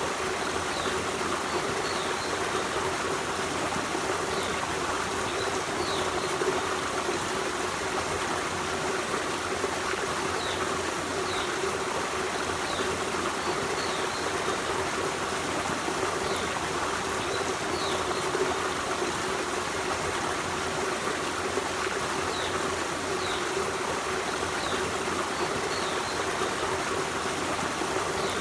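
Forest stream running steadily over rocks, a continuous rushing and trickling, with faint short high chirps every second or two above it.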